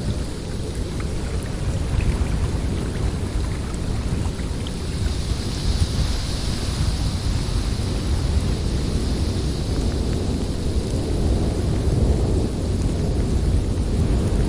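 Snowstorm wind: a steady low rumble of gusts with a hissing layer that swells about five seconds in and eases again.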